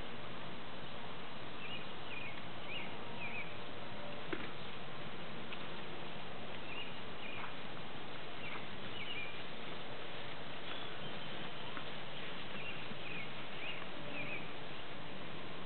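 Steady outdoor background hiss with small birds chirping, short high calls in groups of three or four every few seconds.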